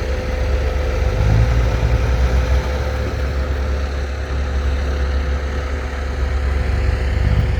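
Heavy diesel engine idling steadily, a low rumble with a faint steady whine over it.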